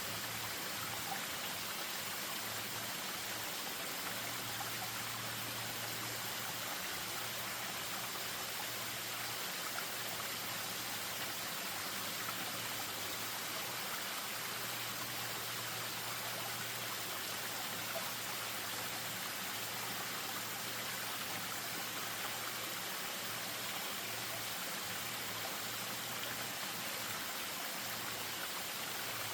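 Spring-fed stream spilling over a small waterfall: steady rushing, trickling water.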